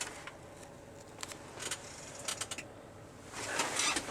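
Scattered light clicks and rattles, then a short rustling noise near the end.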